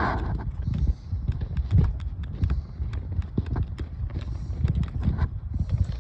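Footsteps crunching through snow in an irregular walking rhythm, with wind buffeting the microphone as a low rumble underneath.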